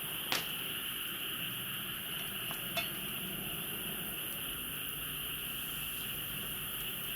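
Steady chirring of crickets or other night insects, with two light clinks of a metal utensil against cookware, one just after the start and one near the middle.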